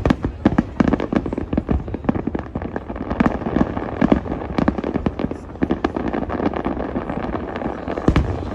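Aerial fireworks exploding in quick succession: a dense run of sharp booms, several a second, over continuous crackling from bursting shells.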